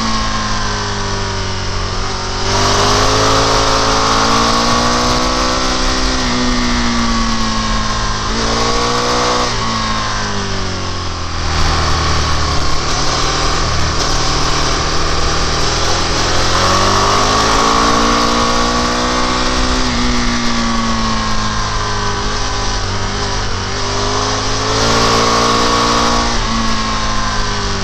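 Motorcycle engine under way, its pitch climbing and falling several times as the bike accelerates and slows, over a steady rush of wind and road noise.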